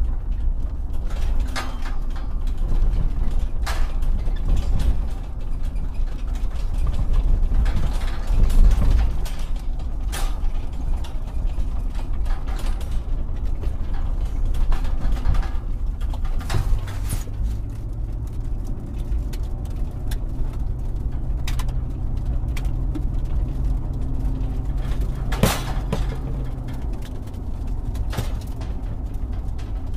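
Excavator's diesel engine running with a low rumble, with scattered metallic clanks and creaks from the working arm and bucket. A steadier engine tone comes in about halfway.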